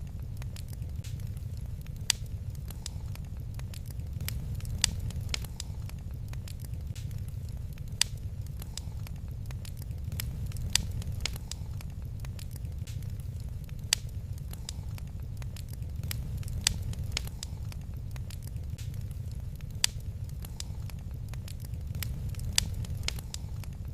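Wood fire crackling in a fireplace: a steady low rumble with small crackles throughout and a louder sharp pop about every three seconds.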